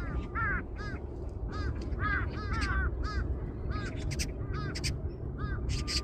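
A crowd of crows cawing over and over in short, harsh, overlapping calls, over a steady low rumble, with a few brief sharp noises in the second half.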